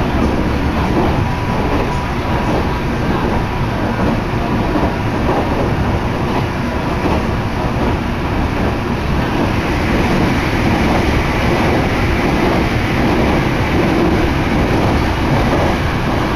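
Meitetsu Toyota Line electric commuter train running at speed, heard from inside the carriage: a steady rumble and rush of wheels on rail. It grows a little louder and brighter from about ten seconds in.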